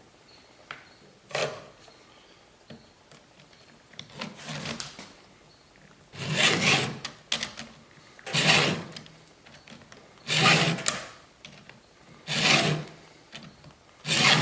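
Hand file rasping across the cutters of a Stihl MS290 Farm Boss chainsaw chain in a Stihl filing-guide sharpener, which also lowers the rakers. Separate forward strokes about every two seconds, the first two faint and the rest louder.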